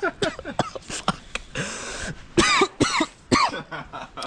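Men coughing and gagging in short, pitched vocal bursts at the stench of a freshly opened rotten coconut, with a long breathy exhale about one and a half seconds in.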